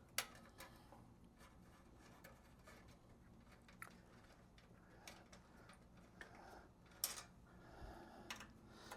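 Faint, scattered metallic clicks of a tool working screws out of an espresso machine's side panel, a sharper click just after the start and another about seven seconds in, over near-silent room tone.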